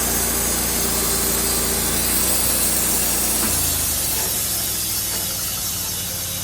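Sawmill running and sawing through wood: a steady engine note under a hiss of cutting noise. About three and a half seconds in, the engine note drops and changes, and the sound eases off a little.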